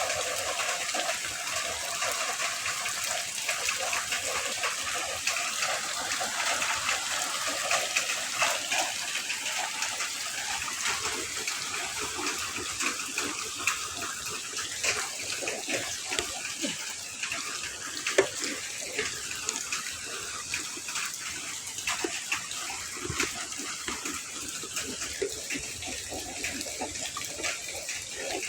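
Heavy rain falling steadily: a dense hiss of drops with many small individual drop hits.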